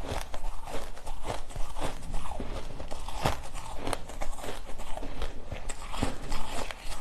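Ice being bitten and chewed close to the microphone: a quick, irregular run of sharp crunches and cracks.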